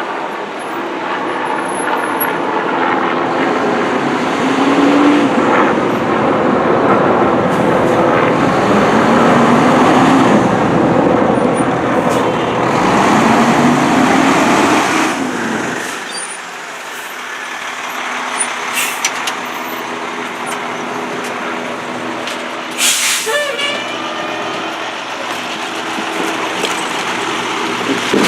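Fire engine responding: its engine running loudly with rising and falling siren wails. The sound drops off suddenly about sixteen seconds in, and a short sharp hiss of the air brakes comes near twenty-three seconds.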